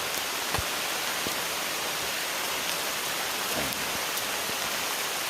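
Steady heavy rain falling, with a single knock about half a second in.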